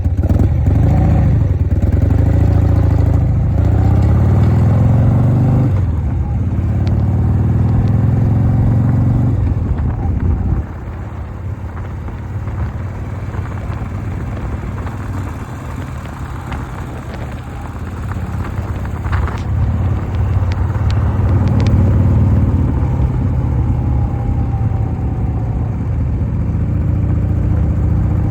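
1988 Harley-Davidson Softail's Evolution V-twin running on a ride, engine note rising and falling with the throttle. It backs off suddenly about ten seconds in and builds up again in the last third.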